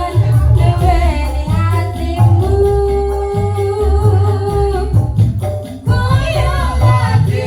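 Live wedding-band music: a singer's held, wavering melody over a pounding, steady bass beat, with a brief break in the beat a little past halfway.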